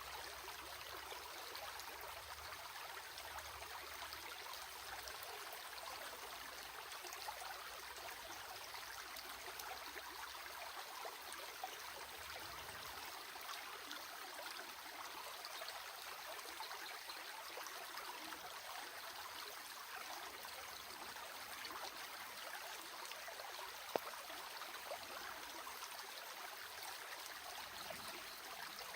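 A stream of water running steadily, a soft even rush with a little trickling.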